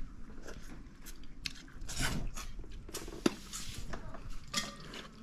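A person chewing and biting into a cooked fish head close to the microphone, with many small clicks and one sharper click a little past three seconds in.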